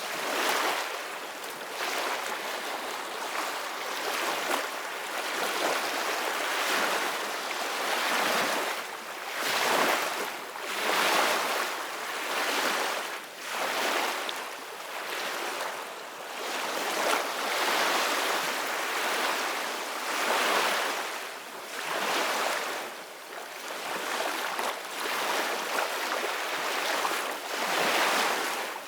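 Ocean waves breaking and washing on a shore, a steady rush of surf that swells and ebbs every few seconds.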